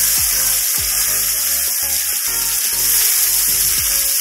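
Onions with green chilli and ginger-garlic paste sizzling in hot oil in a kadai as they are stirred and sautéed with a wooden spatula. Background music with a steady beat of about two thumps a second plays under it.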